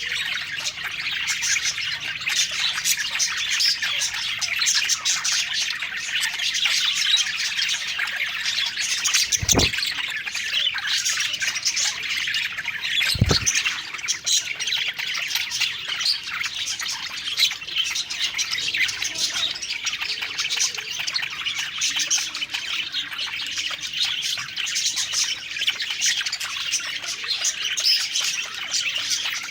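Budgerigars chirping and warbling together in a dense, unbroken chatter. Two short low thumps come near the middle, a few seconds apart.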